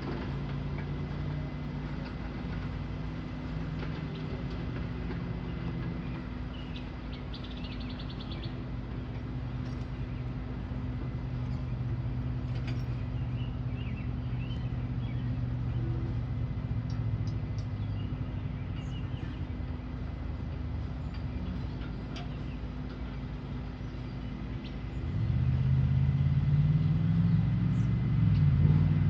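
Low, steady motor-vehicle engine hum, growing louder about four-fifths of the way through with its pitch climbing. Faint high clicks and chirps sound over it now and then.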